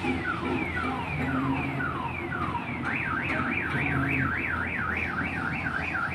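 Electronic multi-tone siren alarm cycling through its patterns: repeated quick falling sweeps, about three a second, switching about halfway through to a fast rising-and-falling warble. A low steady hum runs underneath.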